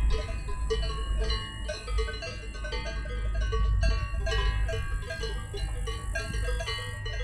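Bell-like ringing: many short pitched notes at different pitches, several a second, over a steady low rumble.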